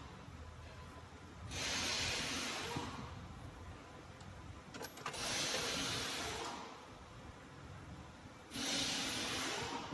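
Slow, even breathing close to the microphone: three long hissing breaths about three and a half seconds apart, with a small click about five seconds in.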